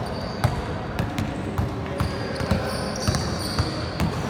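Basketball bouncing on a hard court floor: irregular dull thumps, several a second, among other thuds of play.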